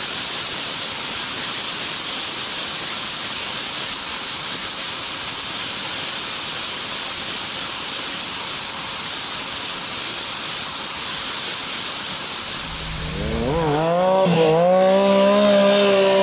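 Steady rush of wind noise at speed. About three-quarters of the way through, the Yamaha MT-09's three-cylinder engine comes in loud, its pitch rising, dipping briefly, then climbing again under acceleration.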